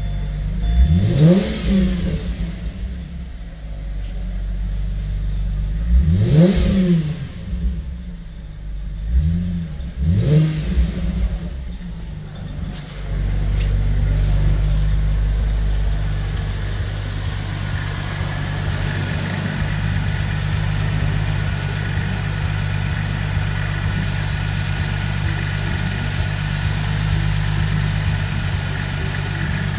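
2006 Holden Commodore's 3.6-litre LY7 V6 petrol engine revved in four quick blips, each rising and falling in pitch, then settling into a steady idle for the rest of the time.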